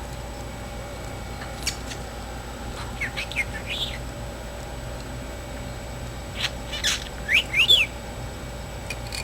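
Pet budgerigar giving short, scattered chirps with quick up-and-down slides in pitch, a few early on and a louder cluster about seven seconds in.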